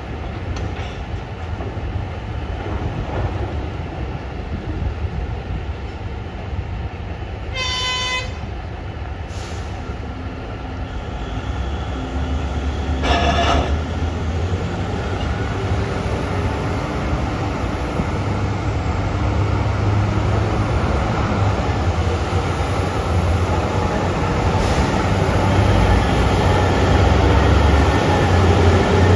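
Heavy mining machinery, a 20 cubic metre loading shovel and a 190-tonne haul truck, running with a steady low rumble that slowly grows louder. A short horn toot sounds about eight seconds in and another, slightly longer, about thirteen seconds in.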